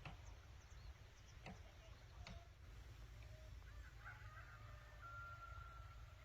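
Near silence: faint bird calls and a few light clicks over a low steady rumble, with one thin held whistle near the end.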